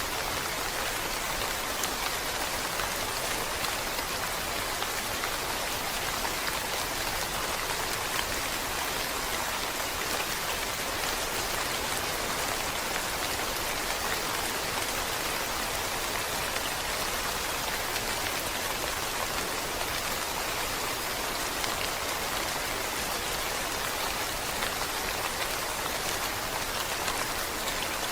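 Steady rain falling, an even hiss of many drops on a surface with no change in strength.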